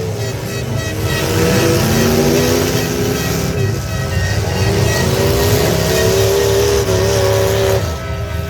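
Several truck engines running and revving together, their pitch repeatedly rising and falling.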